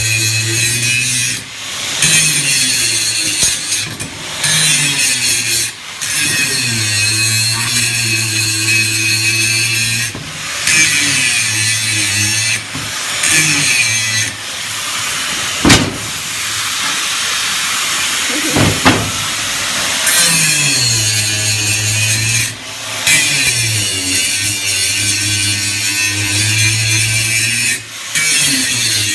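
Angle grinder grinding down weld seams on steel, with a hissing grind over the motor's hum. The motor's pitch sags and recovers again and again as the disc is pressed in and eased off, and the grinding breaks off briefly several times. There are two sharp knocks around the middle.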